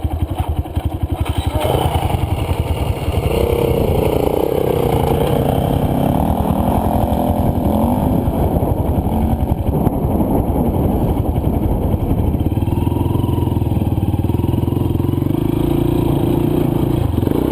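Single-cylinder four-stroke dirt bike engine under way, the revs rising and falling with the throttle as the bike works through deep, loose sand.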